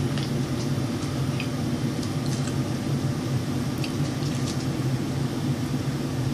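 Faint wet chewing and mouth sounds of someone eating, a few soft ticks scattered through, over a steady low hum.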